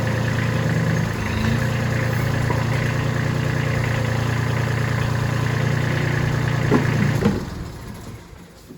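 Tractor engine idling steadily, then shutting off about seven seconds in after a couple of knocks, its sound dying away over a second or so.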